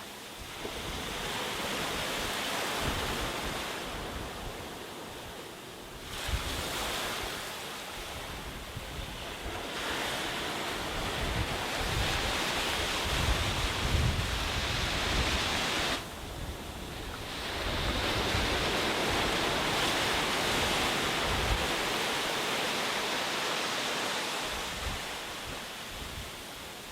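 Sea waves breaking and washing up a beach: rushing surf that swells and fades in about four surges, one dropping away suddenly about sixteen seconds in.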